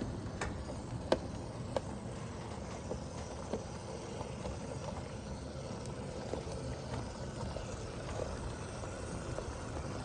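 O scale model train running on its track: a steady low rumble with a few sharp clicks in the first few seconds.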